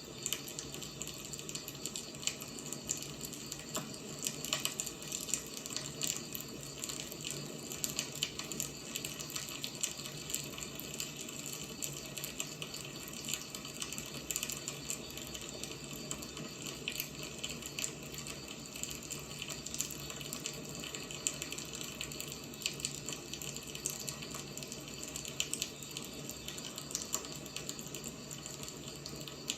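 Wood fire burning steadily, with a continuous hiss and frequent small crackles and pops of burning firewood.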